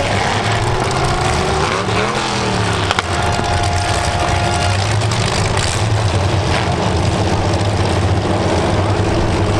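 Demolition derby cars' engines running loudly, revving up and down, with a sharp knock about three seconds in.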